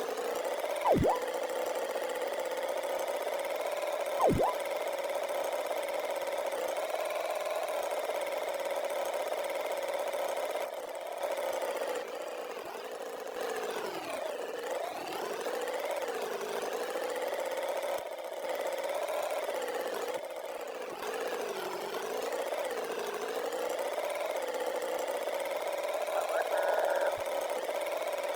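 Cartoon tractor engine sound effect running steadily, a buzzing hum whose pitch wavers up and down, with two sharp clicks about one and four seconds in.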